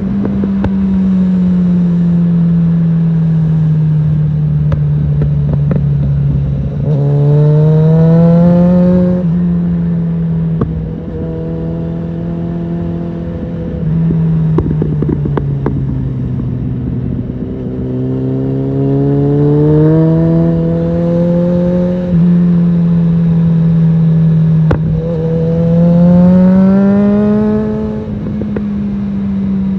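Suzuki GSF650 Bandit's inline-four engine through an aftermarket Storm exhaust, under way, its note rising under acceleration and dropping back several times as the throttle is opened and rolled off.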